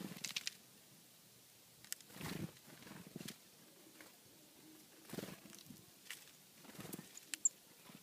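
Birds feeding on scattered birdseed: faint irregular pecking clicks and a few short soft rustling bursts.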